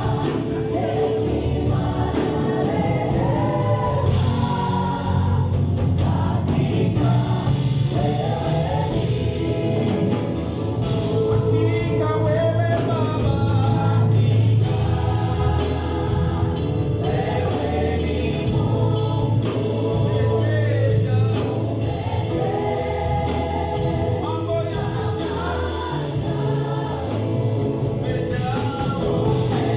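Gospel choir singing a worship song with a band: a steady beat and a strong bass line under the voices.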